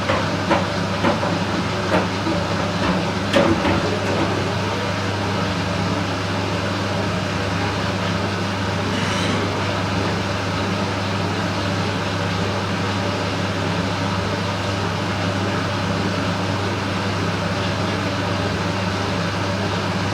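Candy Smart Inverter front-loading washing machine running a cycle: a steady low drum-and-motor drone with a few knocks in the first few seconds.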